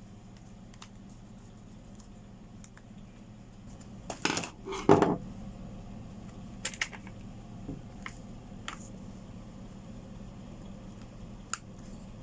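Metal parts and tools clinking and clattering as they are handled on a workbench during a rotary hammer repair, with a louder clatter about four to five seconds in and a few lighter clicks after.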